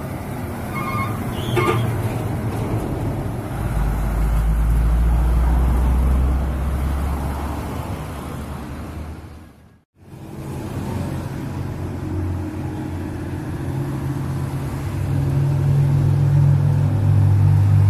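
Diesel truck engine running and revving, swelling a few seconds in. It cuts off abruptly about halfway, then runs again and builds louder near the end. A brief higher-pitched tone sounds near the start.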